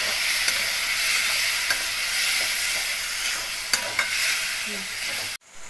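Spice masala with diced potatoes sizzling in a kadai over a gas flame as it is stir-fried, a splash of water just added to keep the spices from burning, with a spatula clicking against the pan a few times. The sizzle cuts off suddenly near the end.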